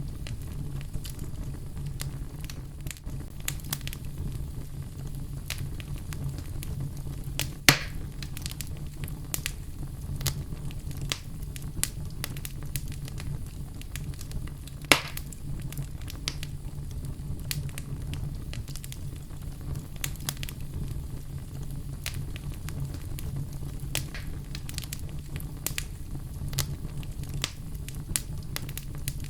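Wood fire crackling in a fireplace: a steady low rumble under irregular small crackles, with two sharp louder pops about a quarter and halfway through.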